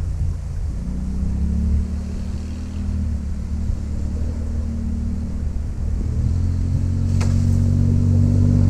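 Off-road vehicle engine running steadily, its pitch rising a little about a second in and again around six seconds.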